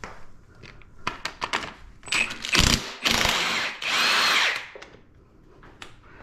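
Handheld power driver run in three short bursts, a bit under a second each, spinning a bolt to break it loose, after a few light clicks and knocks of tool handling.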